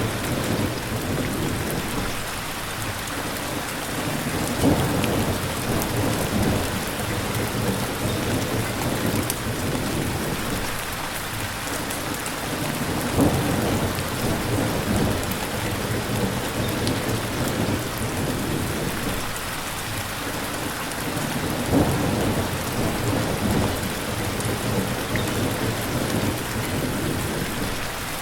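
Steady, dense rainfall, with low rumbles swelling and fading three times: about 5 seconds in, about 13 seconds in, and about 22 seconds in.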